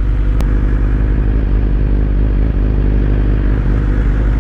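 BMW S1000RR inline-four superbike engine running steadily at low revs, with a single sharp click about half a second in.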